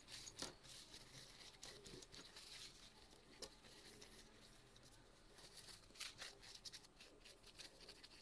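Faint rustling and scattered light clicks, such as a cloth rubbing over a console's processor to wipe off old thermal paste and dust.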